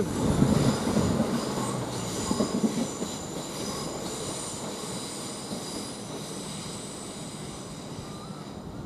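Southern Class 171 Turbostar diesel multiple unit pulling out of the station, its running noise fading as it moves away, with a faint high-pitched squeal from the wheels on the rails.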